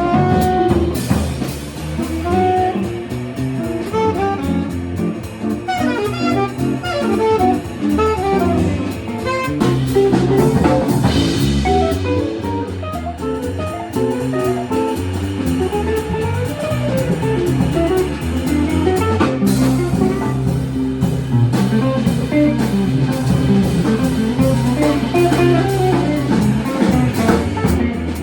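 Jazz quartet playing live: guitar picking quick runs of single notes over a drum kit and bass line.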